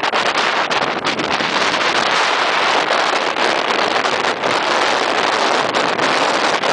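Steady rush of wind and water aboard a maxi racing yacht under sail, with wind buffeting the microphone.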